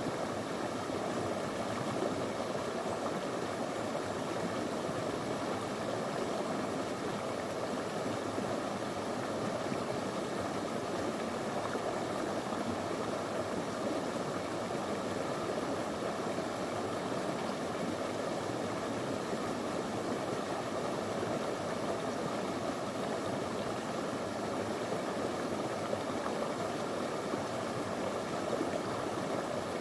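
Small river running over stones, a steady even rush of flowing water.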